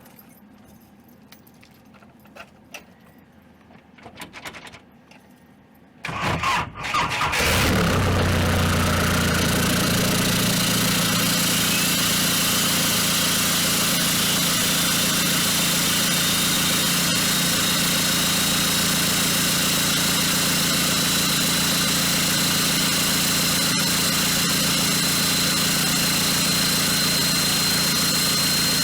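Volkswagen TDI turbo-diesel engine swapped into a Toyota 4Runner, cold-started through its newly fabricated exhaust: a few clicks, then about six seconds in it cranks, catches and settles within a couple of seconds into a steady diesel idle, with a faint high whine creeping up in pitch.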